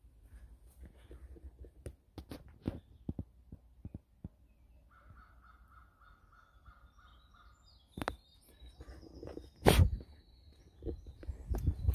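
A bird calling in woodland: a quick run of short, evenly spaced notes, about four a second, for a couple of seconds. Scattered knocks and taps around it, the loudest one near the end.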